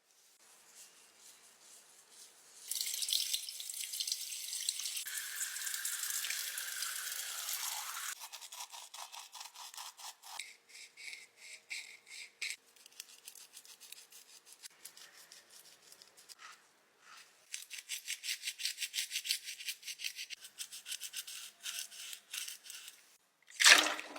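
Quick, repeated dry scratching strokes of a small tool working a makeup product, in spells separated by short pauses, with a sharp swish near the end.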